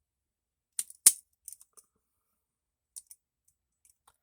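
A few short, sharp clicks from handling the freshly assembled folding pocket knife, the loudest about a second in and two smaller ones near the three-second mark.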